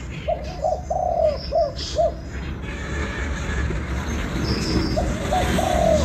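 Spotted dove cooing: a phrase of about five low coos in the first two seconds, then another phrase starting near the end.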